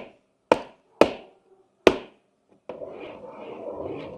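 Four sharp taps on something hard, spaced about half a second to a second apart, then a steady rubbing and scraping that starts about two and a half seconds in.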